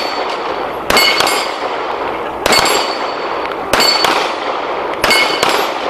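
Pistol shots at steel targets, each shot followed by the ringing clang of a hit steel plate. There are about six shots, spaced about a second apart with a quick pair among them.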